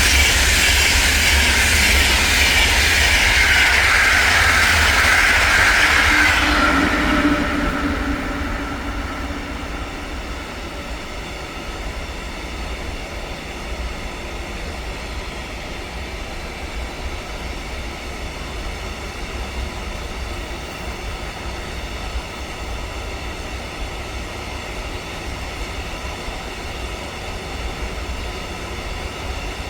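A train passing close by: a loud rushing sound for the first several seconds, easing about seven seconds in to a steadier, quieter rumble of the cars rolling past, with some clickety-clack of the wheels.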